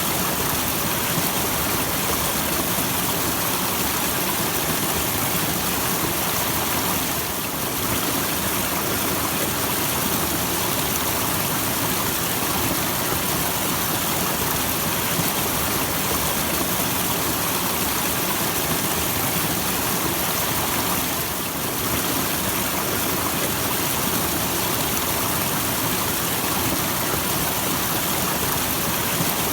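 Small waterfall splashing steadily: a constant, even rush of falling water, with slight brief dips about seven and twenty-one seconds in.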